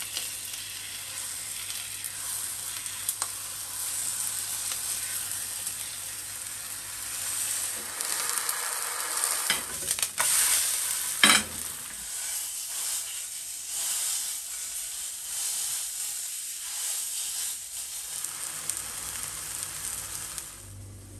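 Minced-meat patty sizzling steadily in oil in a non-stick frying pan, with a spoon scraping the pan as the meat is spread flat. About eleven seconds in there is one sharp knock, the loudest sound, as the pan is handled on the gas stove's grate.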